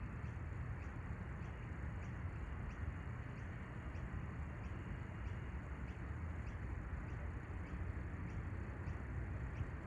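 Steady outdoor background noise with a low rumble, and faint high ticks repeating about twice a second.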